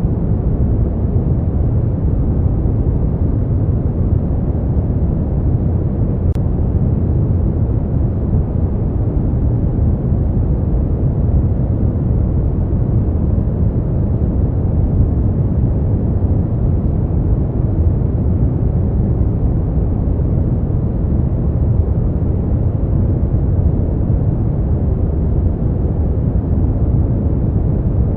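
Steady noise for sleep and relaxation, heavy in the low end: a deep, even rumble that doesn't change.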